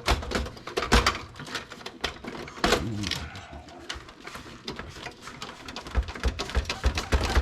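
Irregular clicks, knocks and rattles of metal and plastic parts as a desktop computer case is taken apart by hand, with a brief pitched sliding sound about three seconds in.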